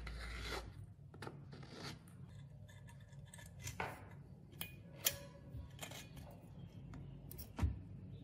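Short snipping and rubbing sounds of hand work, a series of separate quick strokes with the sharpest about five seconds in and one near the end, over a low hum.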